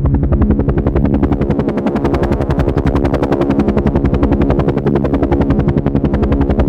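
Helicopter in flight: the rotor blades beat rapidly and evenly over a steady engine hum.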